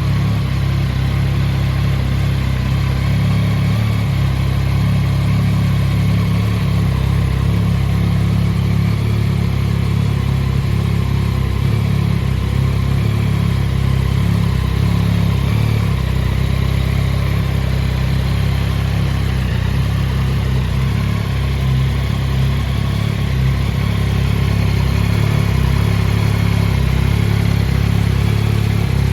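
Yamaha XSR900's inline three-cylinder engine idling steadily.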